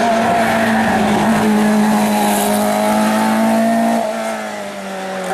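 Race car engine held at high, steady revs, its pitch and loudness easing slightly about four seconds in.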